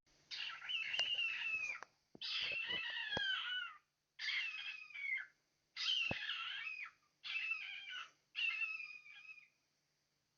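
Cockatiel calling in six separate phrases of about a second each, the pitch wavering and sliding down within each phrase. A few soft knocks sound under the second and fourth phrases.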